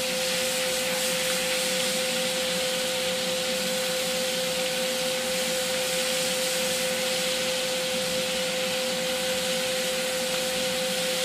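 Sea scallops searing in very hot oil and butter in a frying pan: a steady sizzling hiss. A steady hum runs underneath it.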